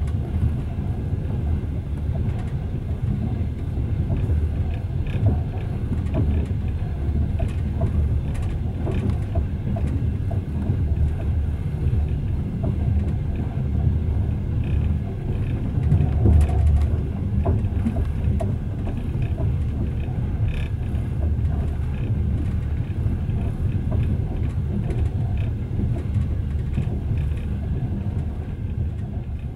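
Passenger train running along the track, heard from inside the carriage: a steady low rumble of wheels on rails with scattered light clicks and rattles, louder for a moment about halfway through.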